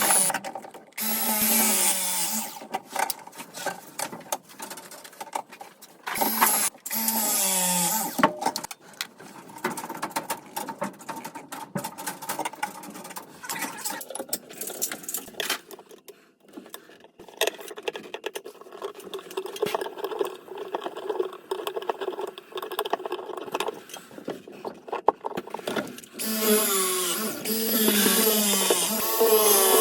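Power drill running in several loud bursts, its motor pitch sweeping up and down as it bores, with quieter, steadier running in between.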